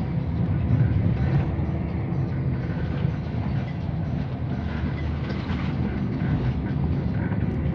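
Steady low rumble of an Irish Rail ICR diesel multiple unit running along the line, heard from inside the carriage, with occasional faint clicks from the wheels on the track.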